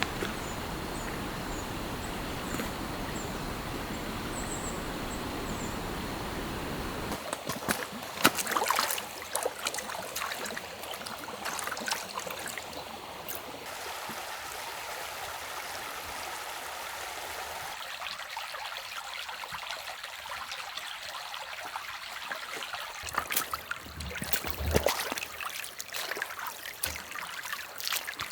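Stream flowing and trickling, its sound changing in character several times, with scattered sharp clicks and knocks about eight seconds in and again near the end.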